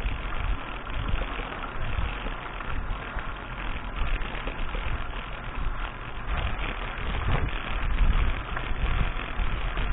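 Wind rumble and the rattle of a mountain bike rolling over a dirt track, picked up by an action camera's microphone, with loudness rising and falling unevenly.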